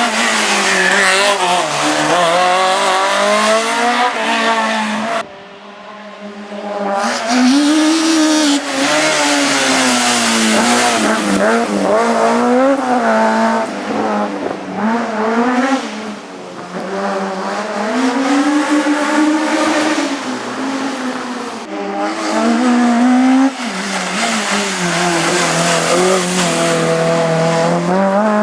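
Race car engine at full throttle, its pitch repeatedly rising and falling as it accelerates, brakes and changes gear through slalom chicanes. There is a sudden lift off the throttle about five seconds in, and brief cuts again near the end.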